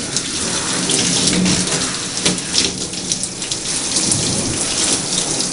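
Water running steadily onto hair as a conditioning treatment is rinsed out, a constant splashing hiss.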